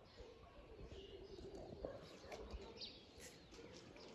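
Faint outdoor ambience with scattered distant bird chirps.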